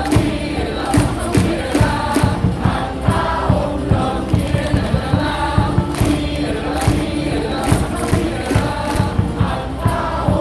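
Baseball stadium crowd singing a cheer song in unison over amplified music, with a steady drum beat.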